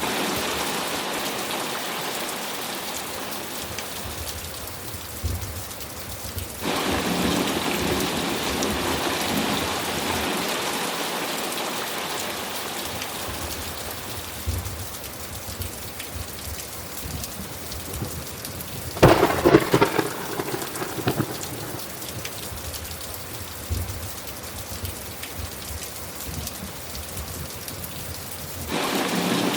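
Thunderstorm: steady heavy rain that turns abruptly louder about a quarter of the way in. About two-thirds through, a sharp clap of thunder cracks and rumbles for a couple of seconds, with low rumbles of thunder scattered throughout.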